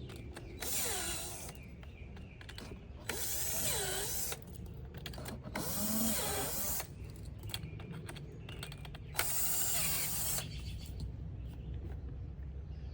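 Power drill spinning in four short bursts of about a second each, driving a screw, with the motor's pitch bending as it loads up.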